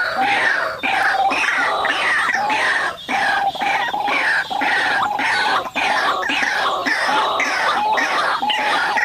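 White-breasted waterhen calling: a continuous run of harsh, repeated notes, each falling in pitch, about three or four a second.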